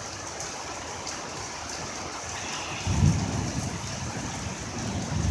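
Heavy rain pouring steadily, with a low rumble of thunder swelling up about three seconds in.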